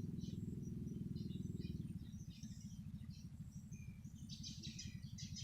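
Outdoor ambience: birds chirping and insects calling over a steady low drone, with a denser run of high buzzy calls starting about four seconds in.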